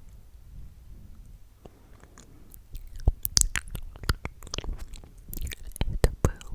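Close-up ASMR mouth sounds: wet, sticky clicks and smacks of lips and tongue. They are faint and sparse at first, then come thick and fast from about three seconds in.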